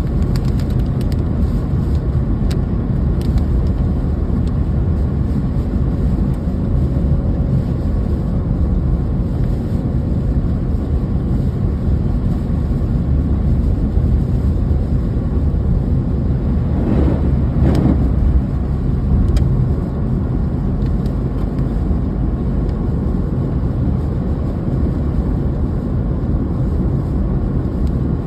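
Steady low rumble of a car driving, with a brief swell about seventeen seconds in and a few light clicks.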